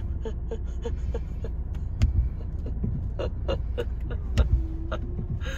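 Car engine idling, heard from inside the cabin as a steady low rumble. A quick run of light clicks, about four a second, sounds in the first second and a half, followed by scattered sharper taps.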